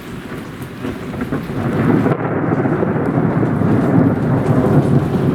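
Heavy rain with a roll of thunder that swells over the first two seconds and keeps rumbling to a steady loud level.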